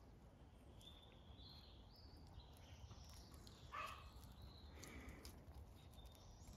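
Quiet outdoor ambience with short, high bird chirps scattered throughout and a somewhat louder bird call about four seconds in.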